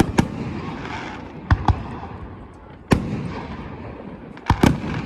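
Fireworks shells bursting overhead: sharp bangs, several in quick pairs, each followed by a trailing crackle and echo.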